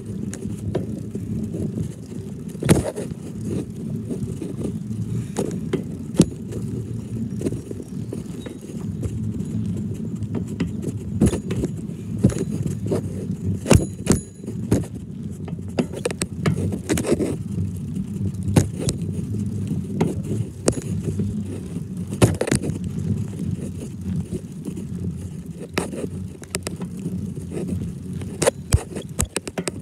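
A zoo ride train running: a steady low rumble with frequent sharp clicks and knocks as the cars move along.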